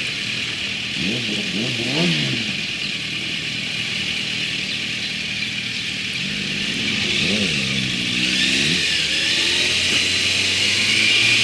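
Motorcycle engine running under way, its revs rising and falling in quick sweeps about a second in and again past the middle, over a steady hiss of rushing air and road noise.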